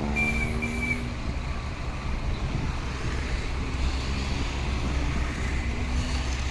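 Large diesel dump truck engine running steadily with a low rumble, with two short high beeps about a quarter second and half a second in.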